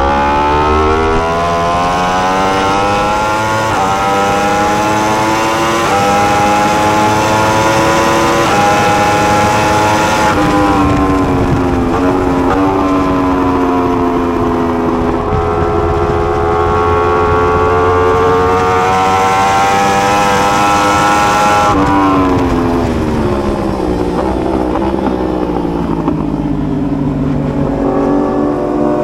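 Yamaha R1M's crossplane inline-four engine at full throttle on track, its pitch climbing through the gears with short dips at each upshift. Twice, about ten seconds in and again a little past twenty, the pitch falls away as the bike brakes and shifts down before accelerating again.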